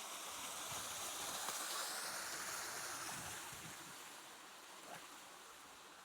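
Small creek flowing, with a high buzz of insects over it that swells about a second or two in and then fades.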